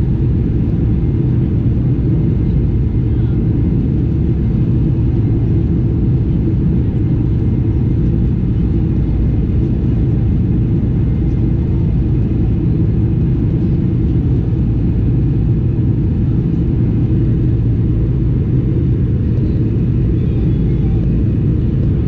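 Boeing 747-400 cabin during take-off: the four jet engines and the rushing air make a loud, deep, steady rumble that holds an even level throughout.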